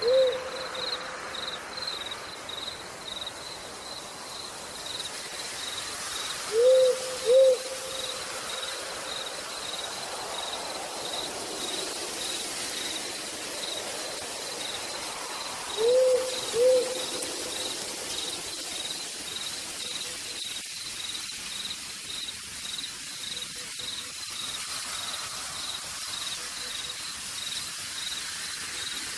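Steady rain falling in a forest, with an owl giving a pair of short hoots three times: at the start, about seven seconds in and about sixteen seconds in. An insect chirps in a steady high pulse under the rain.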